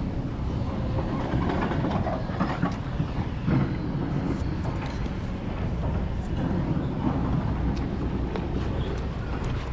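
Dirt bike engine running as the bike rides over rough ground, with scattered knocks and rattles.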